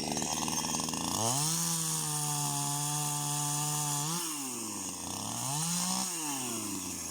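Small two-stroke chainsaw engine running at idle, then throttled up at about a second in and held at high revs for about three seconds. It drops back and is revved up once more briefly near the end.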